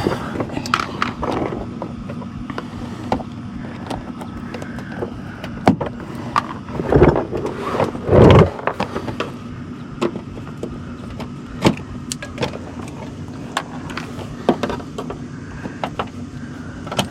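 Scattered clicks and knocks of the plastic splash guard and its fasteners being worked loose under the car, with two longer, louder bursts about seven and eight seconds in.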